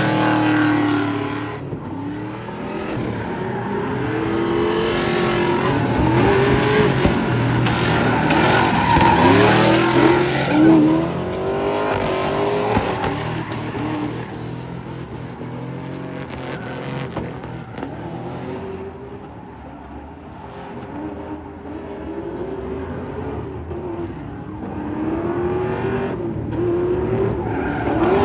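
Pickup truck's 5.3-litre V8 revving up and down again and again, with tyre squeal as the truck drifts and does burnouts.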